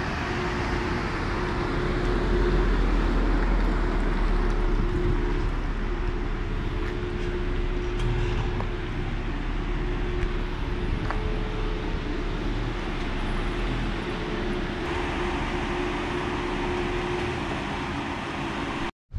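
2008 Infiniti G35 sedan's 3.5-litre VQ V6 running steadily at low speed as the car is manoeuvred across a lot and pulled into a parking space.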